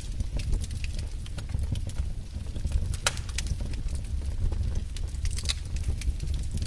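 Logs burning in a fireplace: a steady low rumble of the fire with scattered sharp crackles and pops, a loud pop about three seconds in and another about five and a half seconds in.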